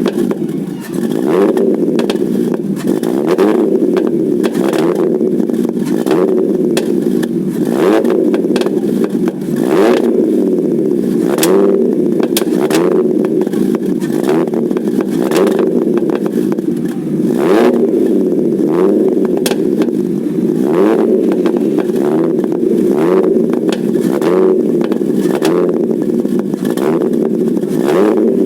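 Fiat Stilo Abarth 2.4's inline five-cylinder engine through a custom-made Varex exhaust, the revs rising and falling again and again. Sharp pops and crackles from the exhaust are scattered throughout.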